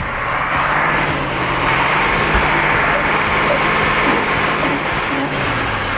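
Heavy vehicle engine running steadily under a broad hiss.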